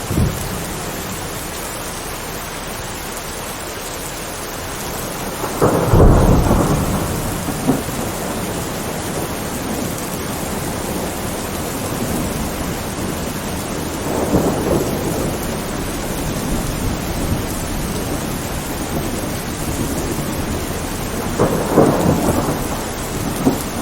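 Steady heavy rain with rolls of thunder: a loud rumble about six seconds in, a softer one around fourteen seconds, and another near the end.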